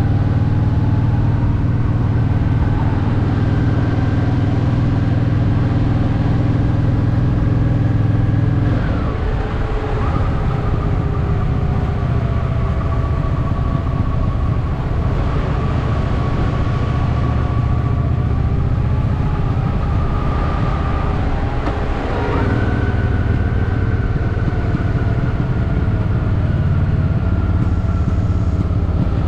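Honda Shadow VT750's V-twin engine running under way, a steady loud note. About nine seconds in the engine note drops in pitch and level, then it steps back up around 22 seconds.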